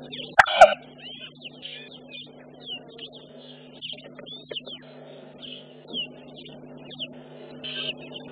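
Small birds chirping repeatedly over a steady low hum, with one brief, loud sharp sound about half a second in.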